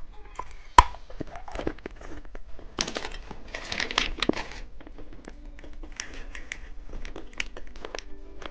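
Plastic candy wrapper crinkling as a lollipop is handled and unwrapped, with many small sharp clicks and one louder click about a second in.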